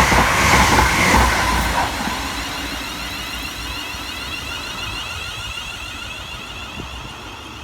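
Siemens Desiro Class 380 electric multiple unit passing through the station at speed, loud at first and fading steadily as it draws away.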